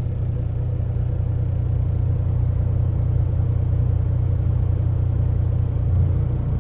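Semi truck's diesel engine idling while parked: a steady low rumble.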